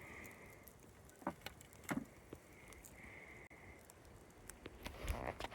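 Campfire crackling, with scattered small pops and clicks and a few louder knocks.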